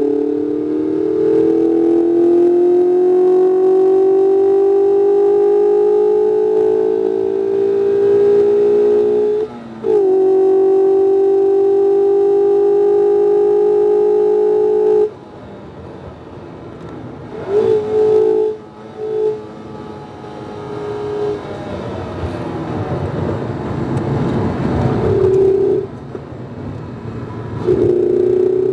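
2019 Mazda MX-5 RF's 2.0-litre four-cylinder engine pulling hard on track, its pitch rising slowly, with a brief dip about nine and a half seconds in. About fifteen seconds in the engine note cuts off as the throttle is lifted, leaving rumbling road noise with a few short bursts of engine sound. The engine comes back under load near the end.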